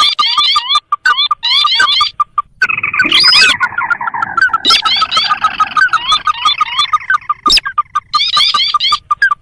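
Recorded lure calls of the sintar, a crake: fast runs of short, rising notes repeated in bursts, with a steady chatter of notes underneath. The calls overlap most thickly in the middle.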